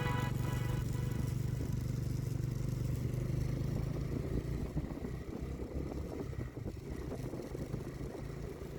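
Motorcycle running with a steady low drone that fades over the first few seconds, giving way to an uneven low rumble.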